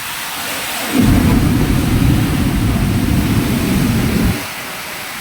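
Steady rushing hiss with a loud low rumble from about a second in until just past four seconds, the kind of noise rough weather makes: rain and wind, or thunder.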